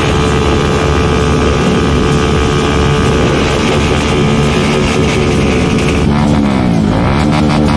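Motorcycle engine held at high, steady revs during a burnout, over a loud rushing noise. From about six seconds in it is revved down and up again and again.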